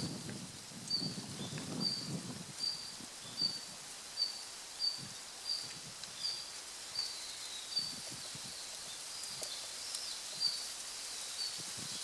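Red-flanked bluetail giving its winter call notes (地鳴き): a long series of short high 'hit' notes, about one every 0.7 seconds, spacing out a little in the last few seconds. A low rumble sounds under the first two seconds.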